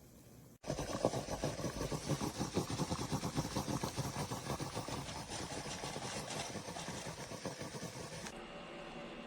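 Small steam espresso machine running with a rough, rapid pulsing sputter that starts suddenly about half a second in; near the end the hiss above it drops away and a softer, steadier noise remains.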